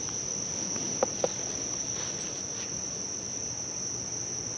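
Crickets chirring in a steady high-pitched drone, with two short clicks about a second in.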